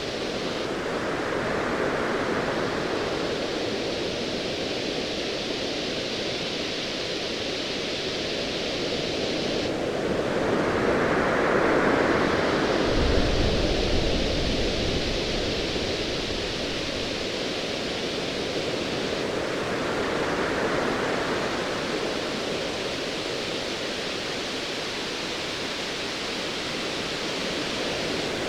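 Ocean waves washing in slow swells, three surges each building and falling away. A deep rumble of distant thunder comes in about 13 seconds in and lasts a few seconds.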